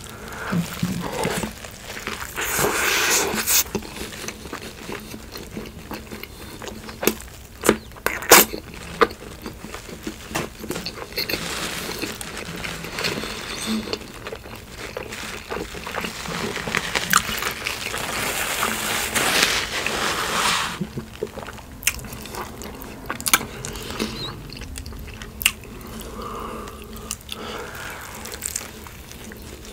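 Close-miked eating of an In-N-Out animal-style meal: bites and chewing, with sharp wet clicks and smacks and several longer stretches of crunching, mouth noise.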